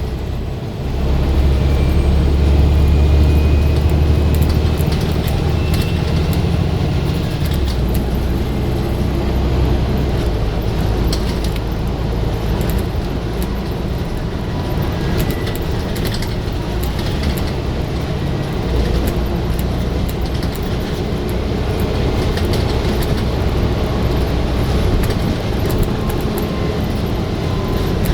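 Scania bus diesel engine being worked hard, running loudly under load, its note dropping and picking up again a few times, with scattered clicks and rattles over it.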